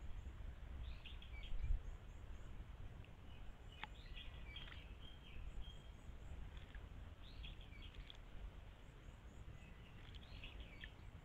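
A songbird singing short phrases about every three seconds, with fainter quick high chirps, over a steady low rumble that is louder at first.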